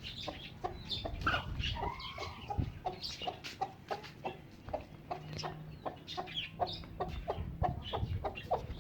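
Domestic chickens: a hen clucking in a steady run of short calls, about three a second, with chicks peeping higher over the top.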